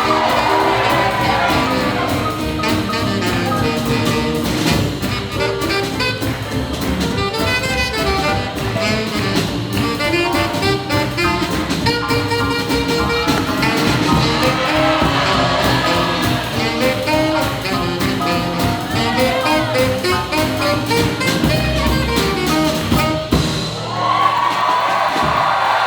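Live swing jazz band with saxophone, trumpet and drum kit playing an up-tempo tune. Near the end the music stops and the crowd cheers.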